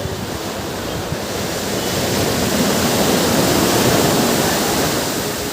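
Ocean surf on a beach: a steady wash of water that swells as a wave breaks in the middle and then eases off.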